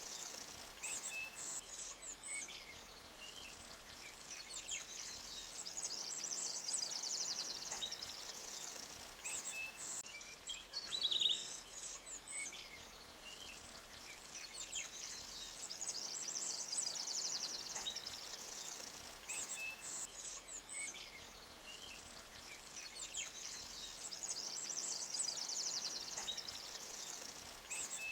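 Forest ambience: insects trilling high, swelling and fading every several seconds, with short bird chirps scattered through and one louder bird call about eleven seconds in, over a faint steady hiss of flowing creek water.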